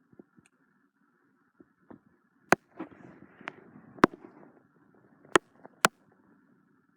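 Four sharp cracks or knocks, the first about two and a half seconds in and the last near the end, with fainter clicks and a soft rustle between them.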